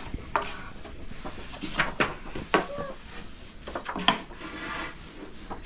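Irregular knocks and clinks of kitchenware, such as pots, dishes and utensils, being handled.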